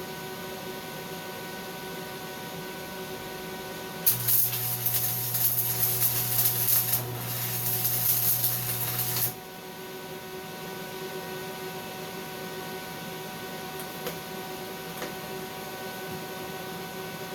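Stick welding arc crackling and sizzling for about five seconds, starting abruptly about four seconds in and cutting off suddenly, with a low electrical buzz under load. A steady machine hum runs before and after it.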